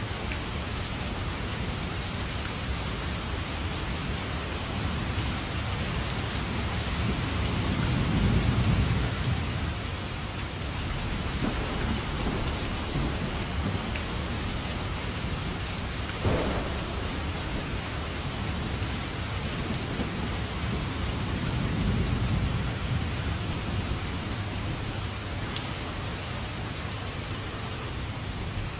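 Heavy rain falling steadily, with thunder rumbling low twice, loudest about eight seconds in and again about twenty-two seconds in, and a single sharp crack a little past halfway.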